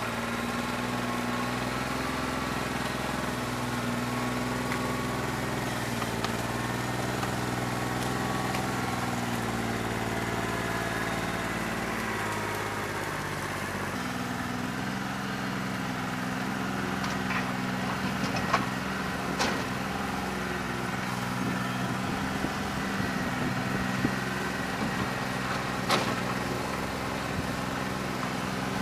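New Holland 1320 compact tractor's diesel engine running steadily under loader work, with a bad injector. Its note changes about halfway through, and several sharp knocks come in the second half.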